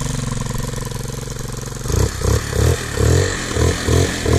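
Enduro motorcycle engine running after being flooded from lying on its side: a steady idle, then from about two seconds in a run of rhythmic throttle blips, about three a second.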